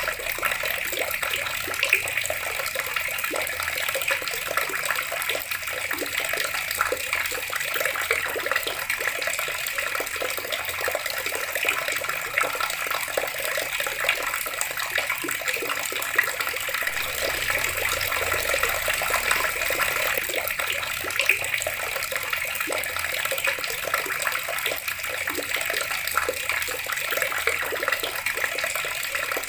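Water running steadily from a tap and splashing below it, with many small splashes and drips.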